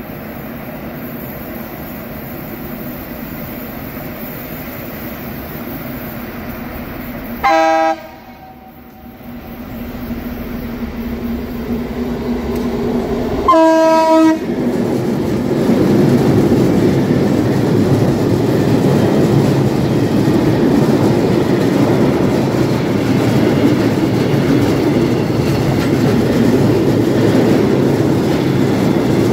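Train horn sounding twice, a short blast and then a longer one about six seconds later, over a steady running rumble. After the second blast the train grows louder and runs with rail clatter.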